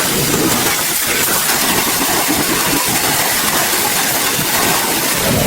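A machine running steadily, a loud, even noise with a strong hiss.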